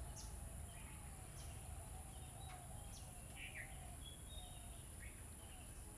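Faint songbirds chirping, a few short high calls and one brief held whistle, over a steady high-pitched hiss and low hum.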